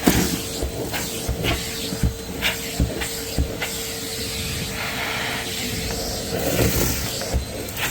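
Vacuum cleaner running, with a steady rushing hiss of suction over a constant motor tone, and irregular sharp crackles and ticks of dirt and grit being sucked up the hose. The motor tone changes about six seconds in.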